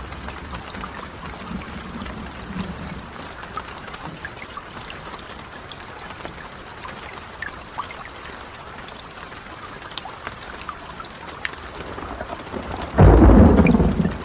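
Steady rain falling, with scattered sharp drop ticks. Near the end, a loud clap of thunder breaks in with a deep rumble.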